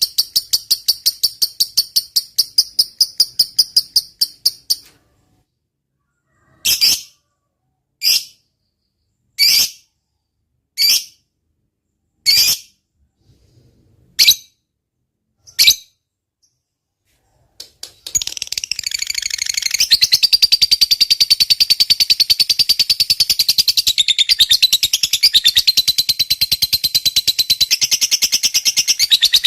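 Lovebird giving its 'ngekek', a fast, high-pitched chattering trill, which stops about five seconds in. Six single sharp chirps follow about a second and a half apart, then the rapid chattering trill starts again about eighteen seconds in and carries on.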